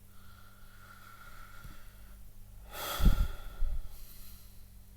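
A man breathes out hard through the nose, a snort-like exhale about three seconds in that puffs onto the microphone; fainter breathing before it.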